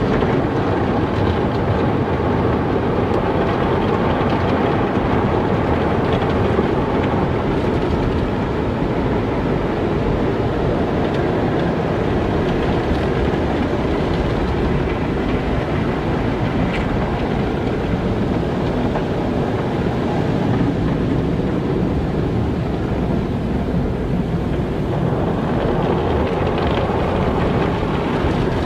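Car wash machinery running: a steady rushing and rumbling noise of water spray and washing equipment. Its higher hiss thins a little in the middle and picks up again near the end.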